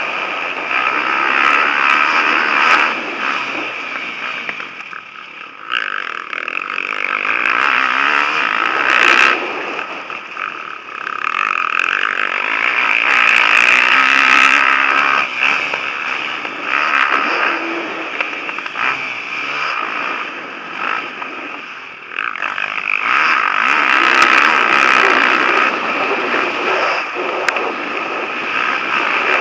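Motocross motorcycles racing, their engines revving up and dropping off in turn as they pass, so the noise swells and fades several times.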